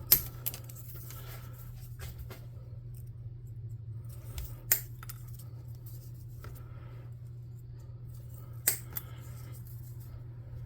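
Hand snippers cutting thin balsa wood strips into railroad ties: three sharp snips about four seconds apart, each followed by a smaller click, over a steady low hum.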